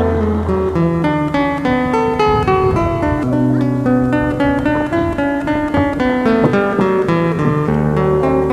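Background music: acoustic guitar playing quick plucked notes over held low bass notes.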